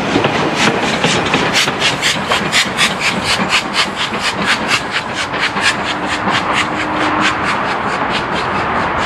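Steam train on the move, a 4-6-0 locomotive working with a quick, even beat of about four a second that fades away near the end.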